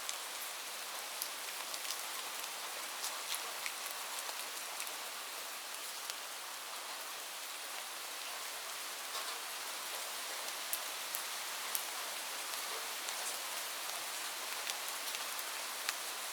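Light rain falling steadily: an even hiss with many small drop ticks scattered through it.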